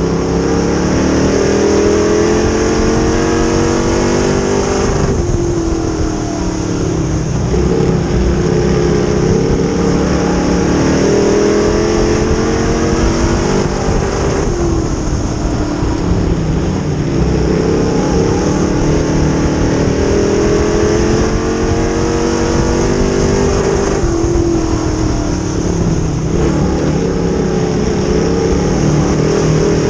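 Dirt-track modified race car engine running hard under racing load. Its pitch climbs steadily, then drops sharply about every nine to ten seconds as the driver lifts for the turns and gets back on the throttle.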